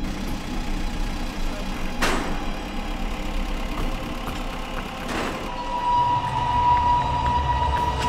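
Heavy machinery at a container yard: a steady mechanical din with two brief swishes, then about two-thirds of the way in a deeper engine rumble comes in together with a steady whine.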